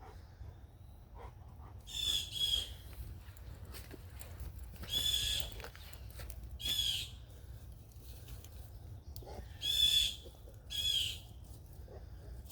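A bird giving five loud calls, each about half a second to a second long, spaced one to three seconds apart, over a steady low rumble.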